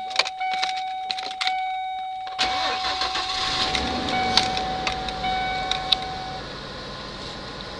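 Ford 4.9-litre inline-six in a 1992 Econoline van starting up about two seconds in and settling into a steady idle, with clicks and rattles before it catches. A steady high warning tone sounds over it and stops about six seconds in.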